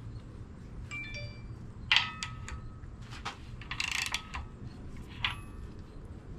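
Loose metal engine parts clinking against each other as they are handled: about five light metallic knocks, some with a short ringing tone, over a low background hum.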